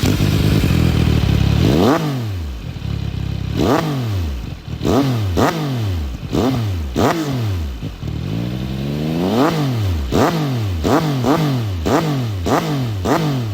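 CF Moto 675 SR-R's three-cylinder engine through a GPR Grand Prix Evo black titanium exhaust, held steady for about two seconds and then revved in a string of quick throttle blips, each rising and dropping back, coming faster near the end.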